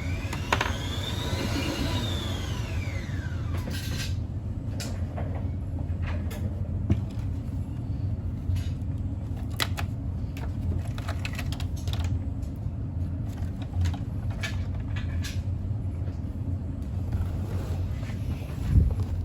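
A steady low mechanical hum, with a whine that rises and then falls over the first few seconds, followed by scattered light clicks and knocks.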